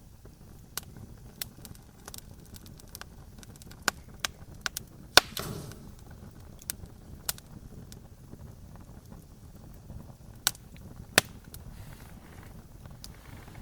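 Wood campfire crackling: irregular sharp pops and snaps over a low rumble of burning. Two snaps stand out as loudest, about a third of the way in and again later, and the first is followed by a short hiss.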